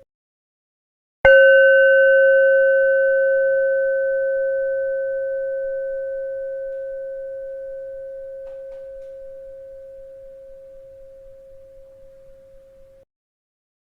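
A bell struck once about a second in, ringing with one clear steady pitch and fainter higher overtones. It fades slowly over about twelve seconds, then cuts off suddenly.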